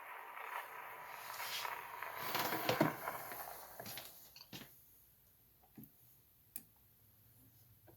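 Faint surface hiss and crackle of a shellac 78 rpm record playing on after the song has ended, with scattered clicks, dying away about four and a half seconds in; a few faint isolated clicks follow.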